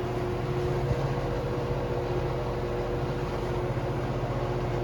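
Washing machine drum spinning up on its spin cycle, a steady hum with a fine even flutter and no knocking, running smoothly on its newly replaced drum spider.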